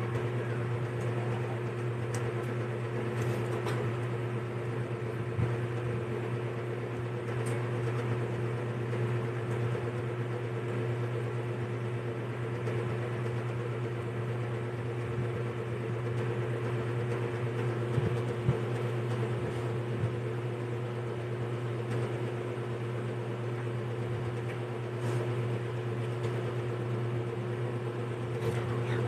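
Steady low mechanical hum of a running appliance, with a few faint short clicks here and there.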